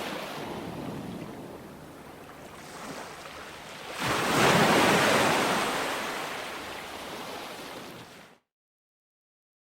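Ocean waves washing onto a shore: a steady rush that swells as a wave surges in about four seconds in, then slowly ebbs. Near the end the sound cuts off abruptly into dead silence.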